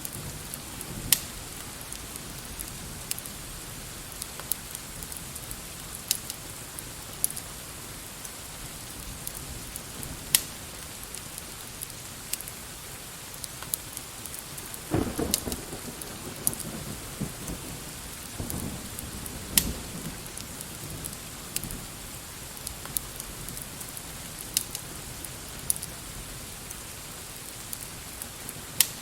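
Steady rain hiss with a fire crackling: sharp pops scattered irregularly throughout. A low rumble of thunder swells about halfway through and fades over several seconds.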